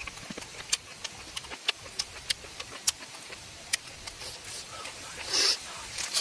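Close-up eating sounds of crispy deep-fried squid: sharp, irregular crackles of chewing, then a louder crunch about five seconds in as a piece is bitten into.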